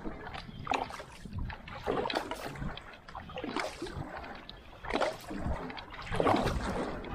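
Outrigger canoe paddle strokes: the blade splashes into and pulls through the water about every second and a half, with water rushing along the hull. Wind rumbles on the microphone underneath.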